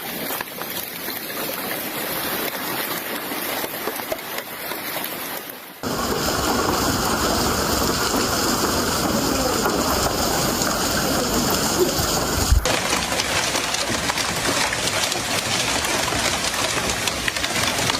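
Hailstorm: a dense, steady hiss of hail and rain pelting down, in three stretches joined by abrupt cuts about six seconds in and near the middle of the clip. The middle stretch is louder and fuller, and a single low thump comes just before the second cut.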